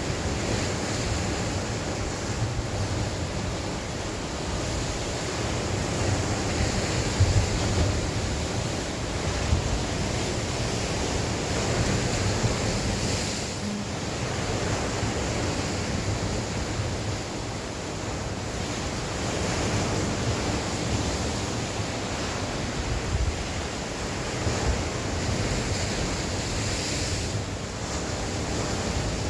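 Sea waves breaking and washing on the shore in steady surges, with gusting wind buffeting the microphone as a low rumble.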